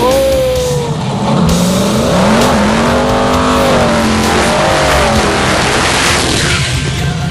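Twin-turbo drag radial Mustang race engine revving: the pitch drops sharply at the start, then climbs about two seconds in and holds high before easing.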